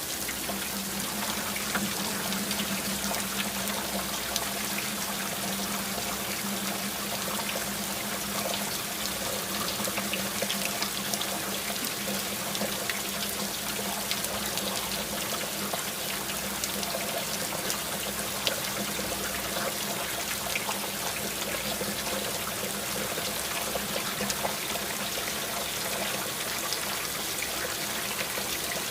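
Steady rain falling, with many individual drops ticking through the even hiss.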